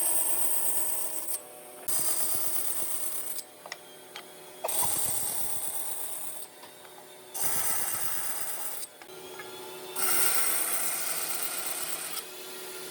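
A hand-held power tool run in five short bursts of about two seconds each, starting and stopping with brief pauses between, with a few light knocks of wood in the gaps.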